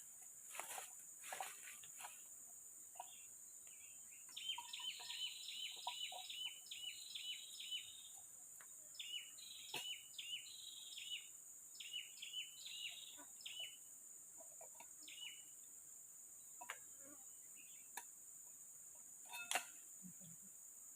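A bird calling in two runs of short, quickly repeated chirps over a steady high insect drone in rainforest, with a few sharp clicks.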